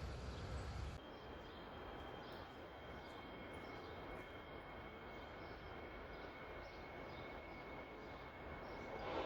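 Outdoor city background noise with faint short chirps and a steady high-pitched whine. Near the end a train horn begins to sound and grows louder.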